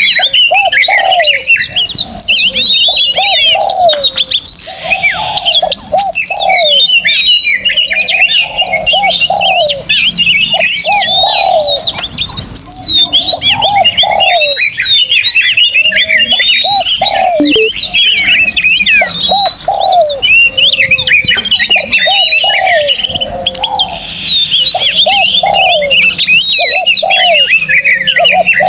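A dense chorus of songbirds singing together, with many quick high chirps and whistled phrases overlapping, over a lower cooing phrase that repeats about once a second.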